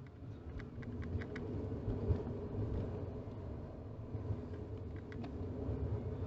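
Cabin and road noise inside a 2018 Toyota RAV4 on the move: a steady low rumble from tyres and engine, with a few light, irregular clicks or rattles in the first second and a half.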